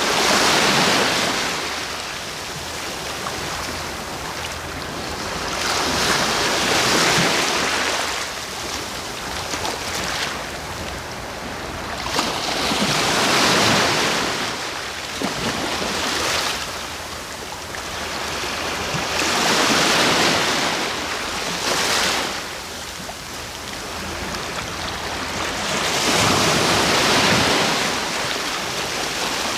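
Ocean waves breaking and washing on the shore. Five swells rise and fall, one every six to seven seconds, over a steady wash between them.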